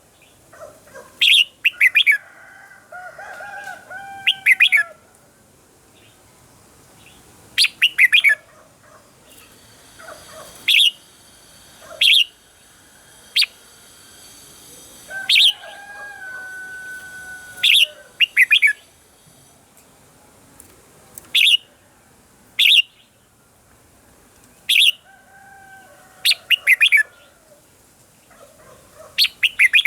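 Red-whiskered bulbuls singing: loud, sharp chirps repeated every second or two, mixed with lower, drawn-out whistled warbles.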